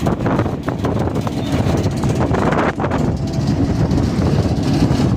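Pickup truck driving at highway speed: steady engine and road rumble, with wind buffeting the microphone.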